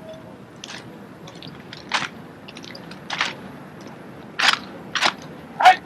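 Drill rifles being handled by a drill team: about five crisp slaps and clacks of hands and rifles striking, spaced irregularly about a second apart, the loudest near the end.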